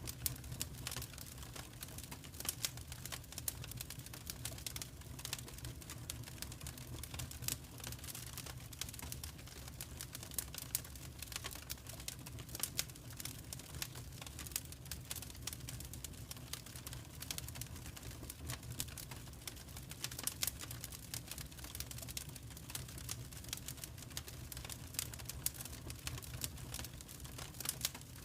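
Wood fire crackling: dense, irregular snaps and pops over a low, steady rumble of the burning fire.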